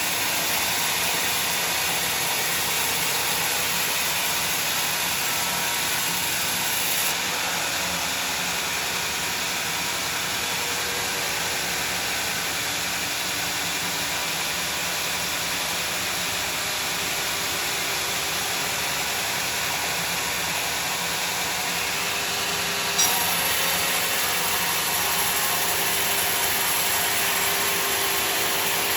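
Sawmill saw running steadily while cutting through a large log, a continuous mechanical drone and hiss. A single sharp click sounds about three quarters of the way through.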